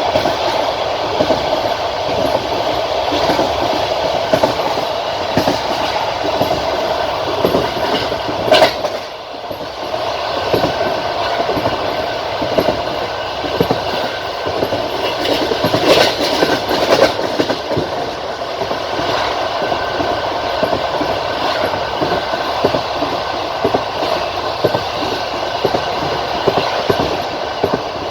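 Passenger train carriage's wheels clattering over rail joints under a steady rolling rumble. A sharp loud knock comes about eight and a half seconds in, followed by a brief drop in the noise.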